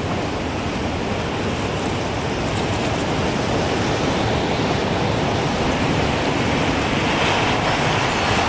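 Gusting wind, a steady rushing that swells louder and brighter over the last couple of seconds as a gust builds.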